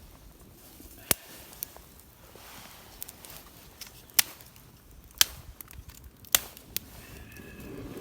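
Wood campfire crackling, with four sharp pops standing out over a faint hiss.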